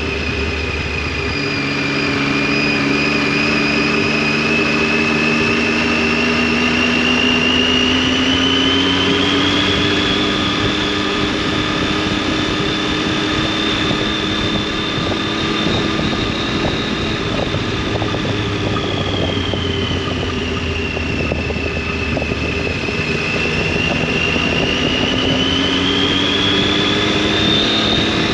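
Triumph Tiger 800's three-cylinder engine and exhaust under way, pulling steadily. Its note rises slowly over the first several seconds, holds, drops about two-thirds of the way through, then rises again near the end, over a steady rush of wind and road noise.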